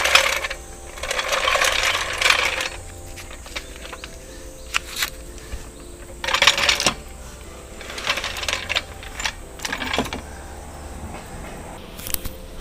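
Metal clinks and clatters of hand tools being handled, in short bursts every second or two, over a low steady hum.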